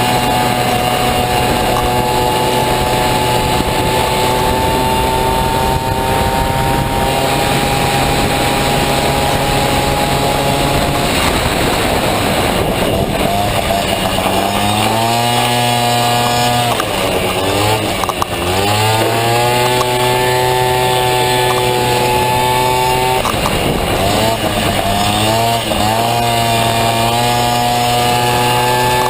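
Honda Motocompo racing scooter with a Honda Dio engine running hard at high revs. About halfway through, the engine note drops and climbs back up several times as the throttle is eased and opened again.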